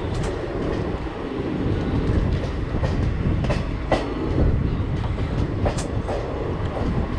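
Indian Railways express passenger coach rolling along the track at speed, heard from its open door: a steady low rumble of wheels on rail, broken by several sharp clacks as the wheels strike the track.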